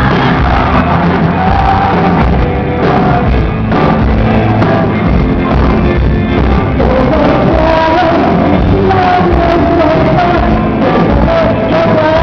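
Live band playing amplified rock-pop music over a PA during a sound check, with a woman singing a wavering melody line over a heavy bass and drums.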